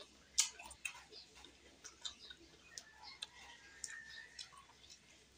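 Quiet mouth sounds of eating: irregular small clicks and smacks of chewing and lips, the sharpest about half a second in.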